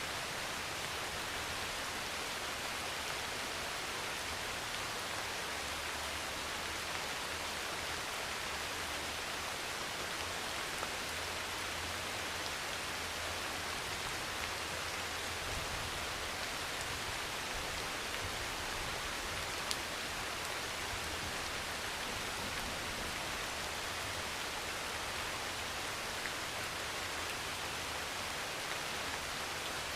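Heavy rain pouring steadily on a thin metal roof, a dense even patter with now and then a single sharper drop click. A faint low rumble runs underneath through the middle.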